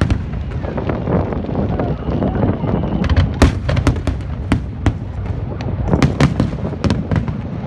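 Fireworks display: a run of sharp bangs at uneven intervals, some in quick clusters, over a continuous low rumble of further bursts.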